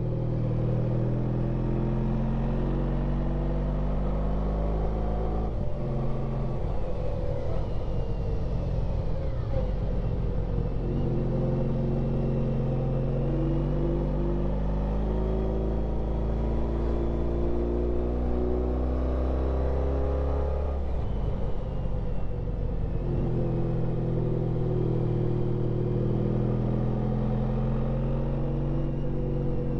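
Honda ST1300 Pan European's V4 engine running under way on a twisty road, its pitch shifting up and down with the throttle; the note breaks and drops about six seconds in and again about twenty-one seconds in before settling back.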